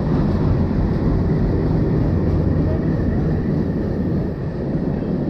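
Steady running noise of an LHB passenger train at speed, heard from on board: a continuous low rumble of wheels on rail with a hiss above it.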